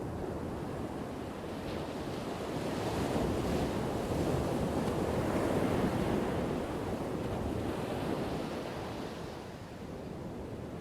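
Ocean waves crashing on a shore: a rushing wash of surf that swells up over the first few seconds, holds, then eases off near the end as the wave runs out.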